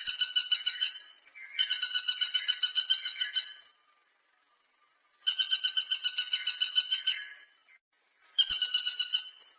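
Woodpecker giving rapid rattling call series: fast runs of sharp, evenly repeated notes, each run about two seconds long with short pauses between, four runs in all, the last cut short near the end.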